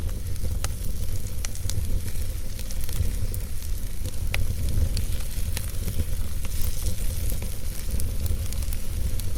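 Fire burning in a fireplace, crackling with scattered sharp pops at irregular intervals over a steady low rumble and hiss.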